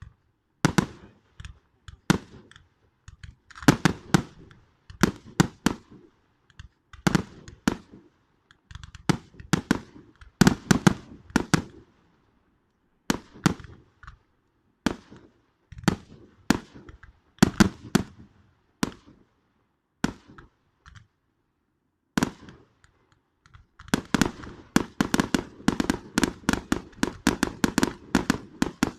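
Fireworks going off: irregular sharp bangs and cracks, often in quick clusters. A short lull comes about three-quarters of the way through, then dense rapid crackling near the end.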